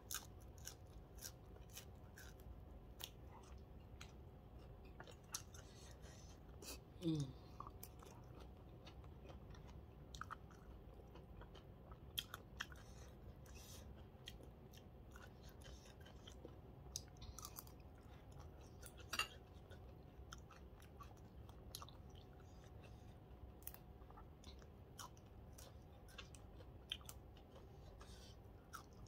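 Faint close-up chewing of papaya salad and raw green shoots, with scattered small crunches and clicks. A brief falling vocal sound about seven seconds in.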